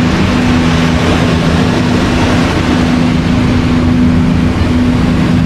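A steady wash of ocean surf and wind noise, with a steady low hum underneath.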